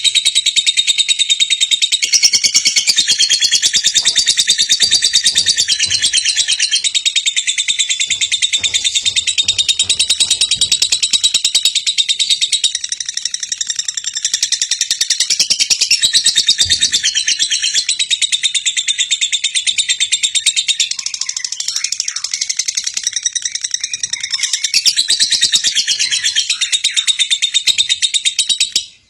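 Lovebird singing its long ngekek: a fast, high-pitched chattering trill kept up without a break for nearly half a minute, stopping abruptly just before the end.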